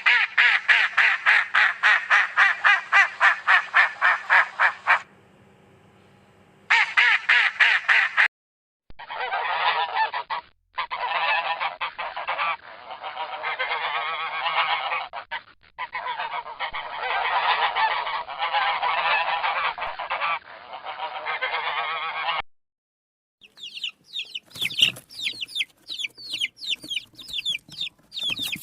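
Fowl honking and calling in a string of short recordings cut together: rapid repeated calls at about five a second, stopping after about five seconds and returning briefly, then a denser run of calls broken by sudden cuts, and near the end a run of quick high-pitched chirps.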